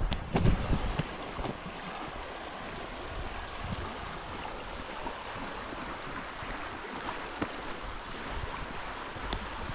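Steady rushing of river water, with wind buffeting the microphone in a few low thuds during the first second.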